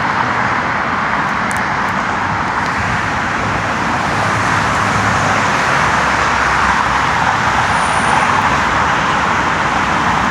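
Steady traffic noise from passing road vehicles, a continuous rushing hiss that grows slightly louder in the second half.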